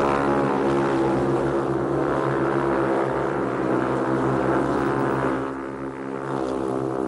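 Speedway motorcycles' single-cylinder engines running hard as the bikes race and slide round the dirt track, a steady, buzzing drone that gets quieter about five seconds in.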